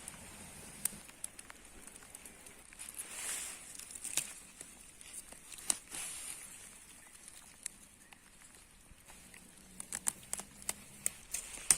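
Light rain falling: a soft, steady hiss with scattered drops tapping and ticking irregularly, more of them near the end.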